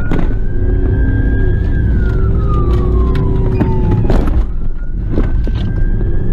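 Police car siren wailing, a tone that rises, holds and slowly falls, then rises again about four seconds in, over loud engine and road rumble from a car driving hard in pursuit, with scattered knocks.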